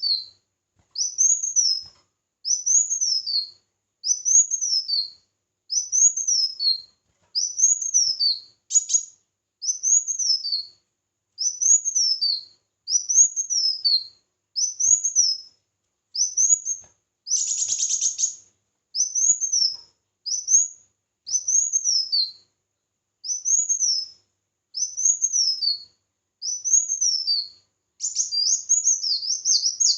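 A songbird singing a high-pitched phrase over and over, about once a second, each phrase a quick upward sweep then a falling trill. About halfway through comes one louder, fuller burst.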